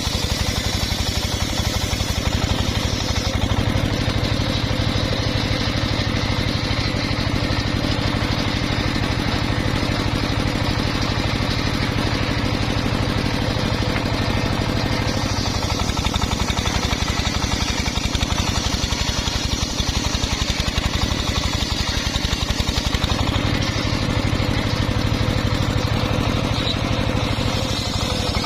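Engine of a homemade engine-driven circular sawmill running steadily. Its low drone gets heavier a few seconds in, eases about halfway through, and gets heavier again near the end.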